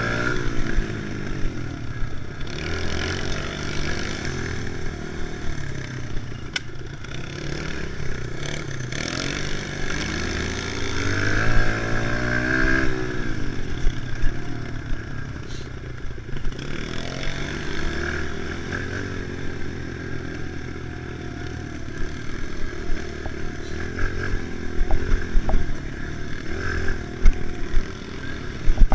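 Kawasaki KLX110's small air-cooled single-cylinder four-stroke engine running hard, its pitch rising and falling as the throttle opens and closes over and over, with occasional knocks and clatter from the bike.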